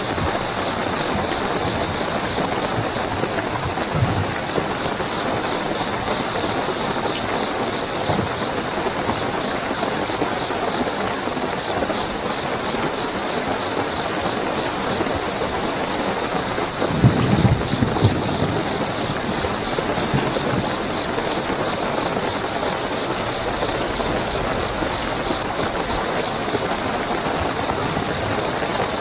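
Steady heavy rain with crickets chirping in a continuous high trill. A few soft low thumps sound through it, the loudest a brief low rumble a little past halfway.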